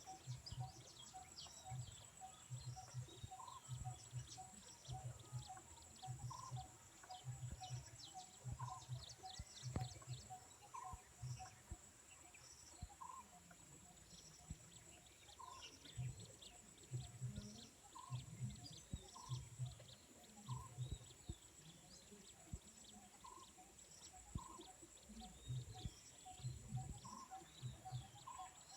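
Faint outdoor ambience of birds and insects: a steady, high, pulsing insect trill, with short bird chirps repeating every second or so and a regular run of soft lower pips. Low dull bumps come and go under them.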